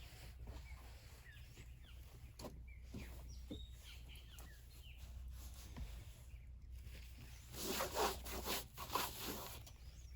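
Outdoor sounds: scattered short chirps from small animals or birds, with a spell of rustling about three-quarters of the way through.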